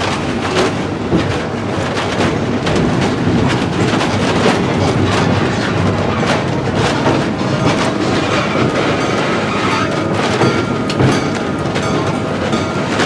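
Passenger train car rolling along the track, heard from aboard: a steady rumble and rattle with the clickety-clack of the wheels over the rail joints.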